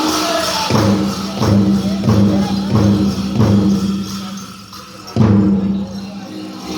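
Powwow drum group singing a prairie chicken dance contest song over steady big-drum beats, about one and a half beats a second. The drum and singing drop away for about a second, then one hard beat brings them back in, with jingling bells.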